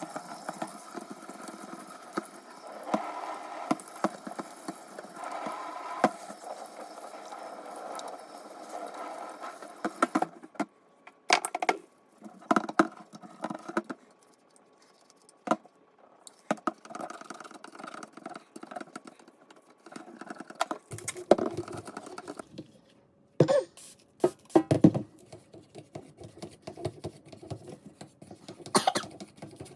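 Hands-on cleaning of a range-hood ventilation fan. For about the first ten seconds there is a steady rush that carries on from running water. After that come irregular short scrubbing bursts, knocks and clatter of parts being handled, with quieter gaps in between.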